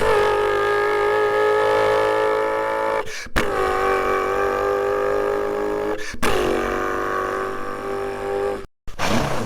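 A person imitating a car with their voice: three long held vocal tones, each dipping slightly in pitch at its start and then holding steady, with brief breaks between them.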